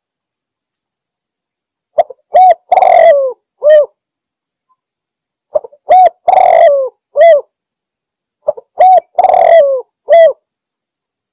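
Spotted dove (tekukur) cooing, a lure call for drawing a rival. It gives three phrases, each a couple of short coos, a longer rough coo, then a short closing coo, repeated about every three seconds.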